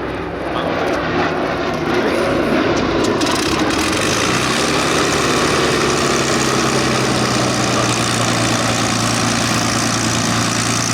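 Propeller-driven warbird's piston engine running, growing louder about two seconds in, then settling into a steady drone.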